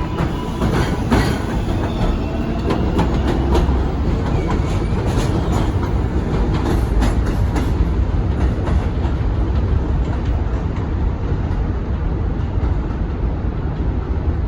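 New York City subway train running through an elevated station: a steady low rumble with wheels clicking over rail joints, the clicks thick in the first half and thinning out later, and brief high wheel squeals near the start.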